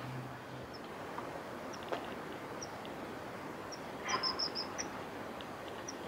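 Scattered short, high-pitched bird chirps over a steady background hiss, with a quick run of several chirps about four seconds in. A low hum fades out in the first half-second.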